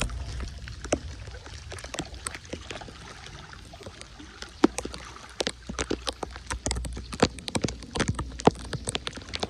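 Rain on a wet street: many irregular taps and splashes of drops, with a low wind rumble on the microphone.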